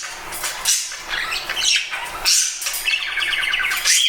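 Pet budgerigar warbling: a fast, busy stream of chirps and chatter broken by several sharp squawks, with a quick run of clicking notes about three seconds in.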